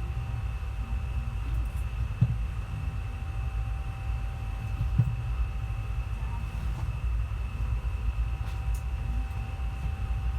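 Indian Railways passenger train running: a steady low rumble with a faint steady hum over it, and two short sharp knocks, about two and five seconds in.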